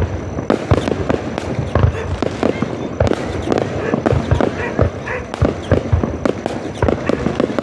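Fireworks display: a rapid, irregular run of deep booms from aerial shells bursting, mixed with sharp crackling bangs.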